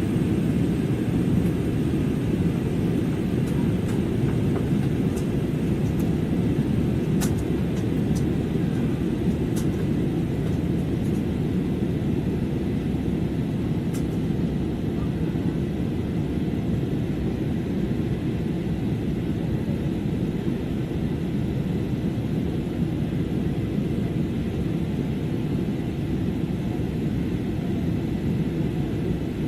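Jet airliner cabin noise in flight: a steady low rumble of engines and airflow, with a few faint ticks in the middle.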